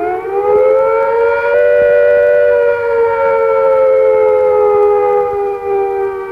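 Air attack warning on a civil defence siren, wailing: its pitch rises over the first second and a half, then holds and slowly sinks.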